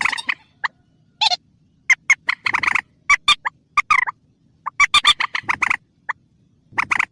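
Recorded lure call of a mandar (rail): bursts of rapid, harsh clucking notes in irregular clusters, with short silences between them.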